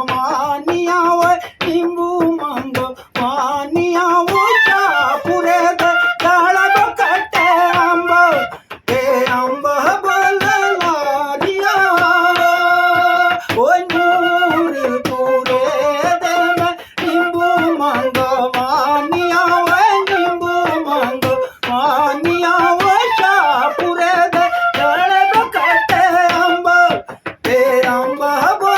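Folk music: a single ornamented melody line of long held notes with glides between them, breaking off briefly every few seconds, over a run of short sharp clicks.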